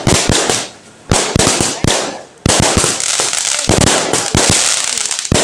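Firecrackers going off in rapid strings of sharp bangs, thickest in the second half, where they run together into a crackling hiss.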